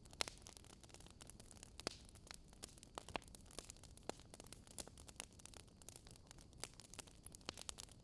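Wood fire crackling, with irregular small pops and snaps over a faint hiss.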